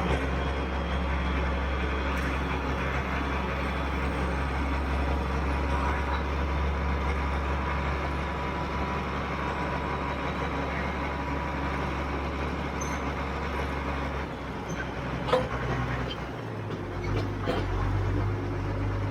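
Combine harvester running steadily while picking corn. About sixteen seconds in its engine note shifts.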